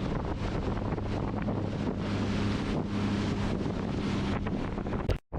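Sea-Doo GTR 230 jet ski running steadily under way, its engine hum buried under heavy wind buffeting on the microphone. The sound cuts out abruptly for a moment near the end.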